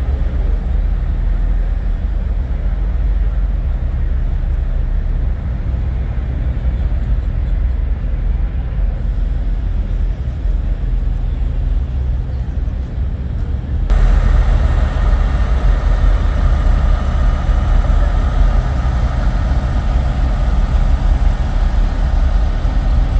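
Semi truck diesel engine idling, a steady low rumble. About halfway through, the sound shifts suddenly, brighter and a little louder.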